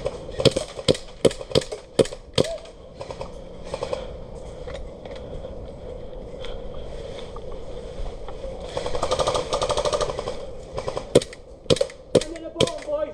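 Airsoft guns firing: sharp single shots about every half second over the first couple of seconds and again near the end, with a rapid full-auto rattle of just over a second in the middle.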